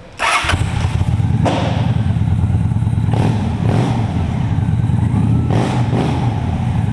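A 2005 Honda VT750 Shadow Spirit's V-twin engine with aftermarket Cobra exhaust pipes starts about half a second in and runs with a deep rumble, with a few brief blips of throttle.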